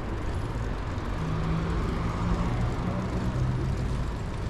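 City traffic heard from a moving bicycle: a motor vehicle's engine hum passes from about a second in until shortly before the end, over a steady low rumble.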